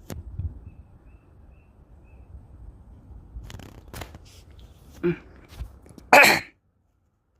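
A person sneezing once, loud and close to the microphone, about six seconds in, over a faint low rumble with a few clicks. The sound then cuts off to dead silence.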